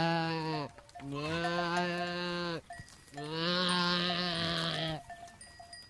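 Goat bleating in long, drawn-out calls: the end of one call, then two more full ones with short pauses between, each dropping in pitch as it ends.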